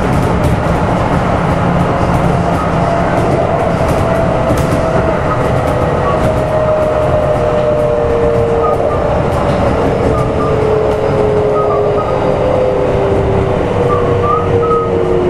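Kintetsu 1253 series electric train heard from inside the car while running: a steady rumble of wheels on rail under a traction-motor whine that falls slowly in pitch as the train slows.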